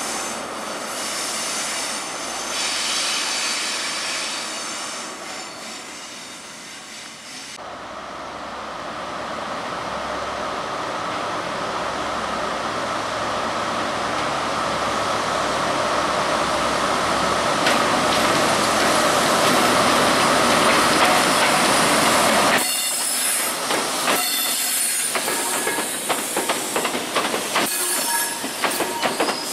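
British Rail Class 43 HST power car's diesel engine running and fading away, then another HST drawing nearer, its engine growing steadily louder until the power car passes. After that the coaches' wheels click rapidly over rail joints and points, with a thin squeal of wheel flanges on the curve.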